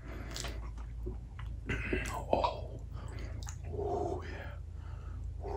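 A person chewing a mouthful of cheeseburger close to the microphone: irregular wet smacks and clicks of the mouth, with a short closed-mouth murmur about four seconds in.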